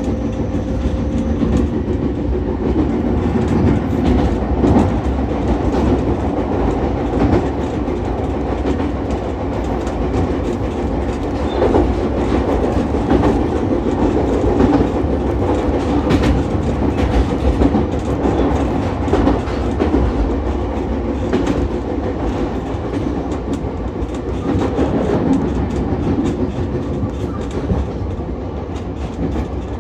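Ichibata Electric Railway 7000-series electric railcar running along the track, heard from inside the car: a steady rumble with clickety-clack as the wheels pass over rail joints.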